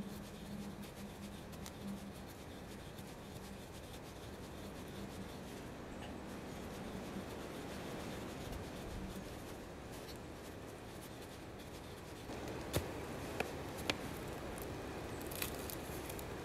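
Knife blade scraping and shaving wood from a log to make fine tinder shavings, a steady scratchy rasp. A few sharp clicks stand out in the last few seconds.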